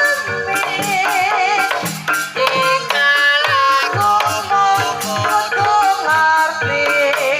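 Javanese Banyumasan gending for tayub: a sinden's wavering, melismatic vocal line over a steady run of drum strokes.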